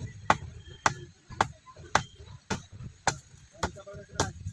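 A hand tool striking wood in steady chopping strokes, eight blows about half a second apart.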